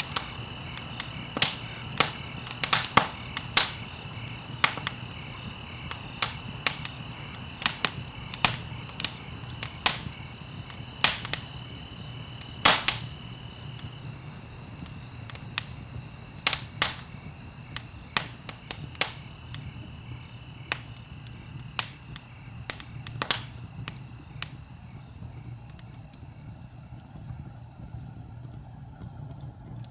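Wood fire crackling and popping in a fireplace: irregular sharp pops, a few of them loud, over a steady low rumble of the flames. The pops thin out over the last few seconds.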